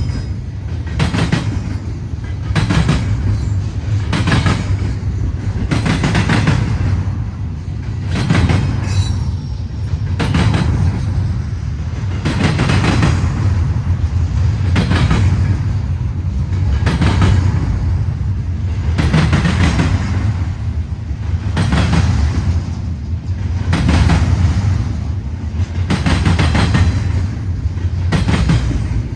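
CN freight train's cars rolling past, the wheels clacking over rail joints in a steady repeating rhythm over a continuous low rumble. A brief high squeal sounds about nine seconds in.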